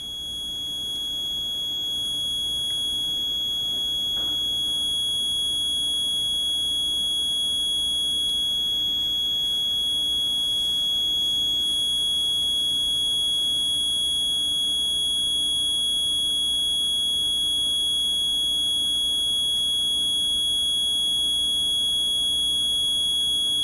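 Steady high-pitched electronic buzzer tone that signals the HVAC fan sequencer's bimetal switch is still closed. It cuts off suddenly near the end as the switch opens after its heater has been de-energised.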